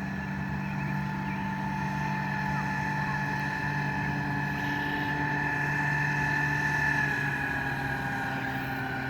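Outboard motor of an 8 ft mini speedboat running at steady speed on the water. Its note rises slightly and grows louder up to about seven seconds in, then drops a little.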